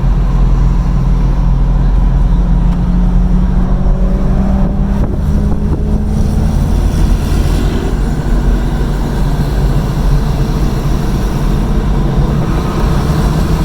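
Car engine and road noise heard from an open convertible driving slowly through traffic. An engine note rises briefly about five seconds in.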